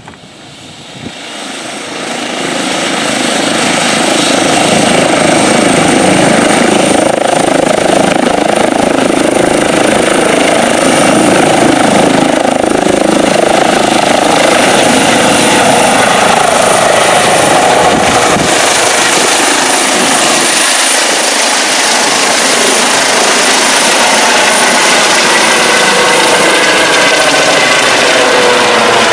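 A nearby aircraft engine running loud and close, building up over the first few seconds and then holding steady with a high whine on top; its pitch shifts near the end.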